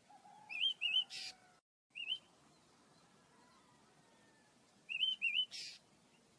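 Small pet birds chirping: a pair of short, wavy high chirps followed by a brief harsh rasp, a single chirp a moment later, and the same pair and rasp again near the end.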